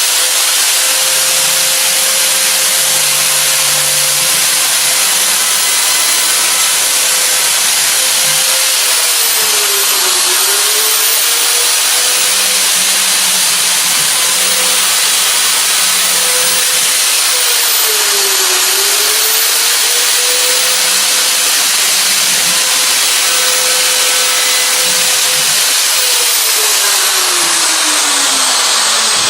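Electric power saw cutting through a wooden worktop: a loud, steady motor whine with cutting noise, its pitch sagging twice as the blade bogs down in the cut and falling away near the end.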